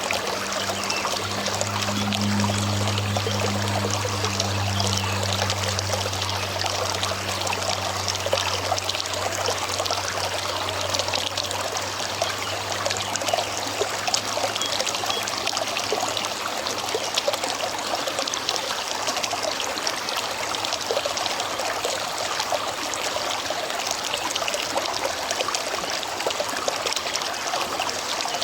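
River water running over a shallow bed, a steady trickling rush. A low steady hum sits underneath for the first dozen seconds or so, then fades out.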